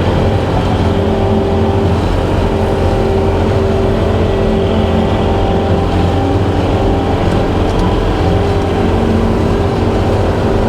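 Skid steer engine running steadily at working speed while it drives a brush hog mower attachment, a continuous drone with a constant hum.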